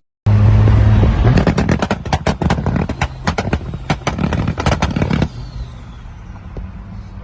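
A tuned car engine held on a two-step launch rev limiter, the exhaust firing a rapid, irregular string of sharp pops and bangs for about four seconds, then dropping back to a steady idle.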